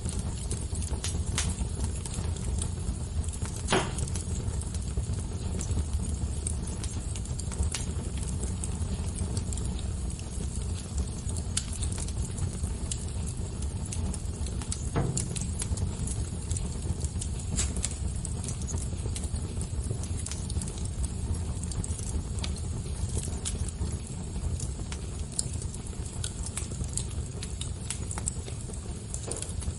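Fire crackling: irregular sharp pops and snaps over a steady low rush, with louder pops about four seconds in and about fifteen seconds in.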